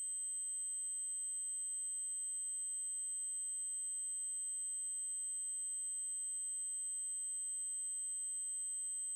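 Steady 8192 Hz triangle-wave test tone: one continuous high-pitched tone that holds unchanged in pitch and level.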